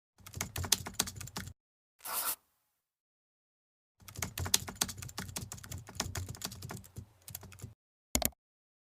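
Rapid, irregular clicking and tapping in several short snippets, each cut off abruptly by dead silence, with a brief hiss about two seconds in.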